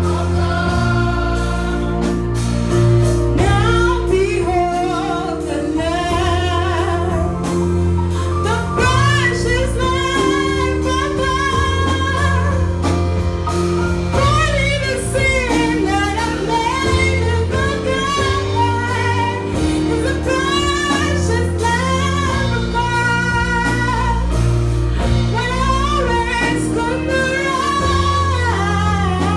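Gospel-style singing of a carol with instrumental accompaniment: a lead voice with wavering vibrato over steady, held bass notes.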